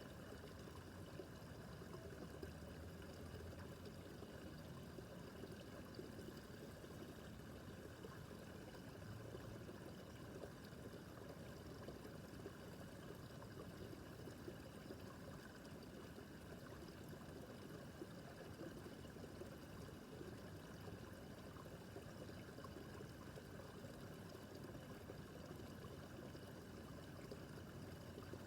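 Babbling brook: shallow water running and trickling over stones, a steady, even burble.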